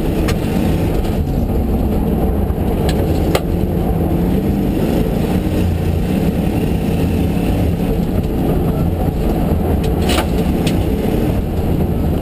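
Ford Mustang GTS rally car's engine running as the car drives a snowy stage, heard inside the cabin together with loud road and chassis noise. A few sharp knocks stand out, one near the start, one about three seconds in and one about ten seconds in.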